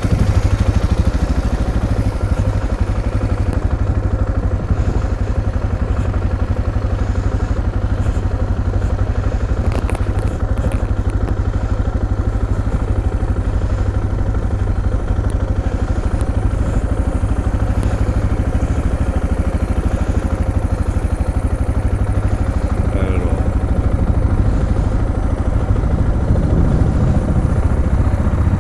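Motorcycle engine running steadily close to the microphone, a low, even rumble that neither rises nor falls, with a few faint clicks about ten seconds in.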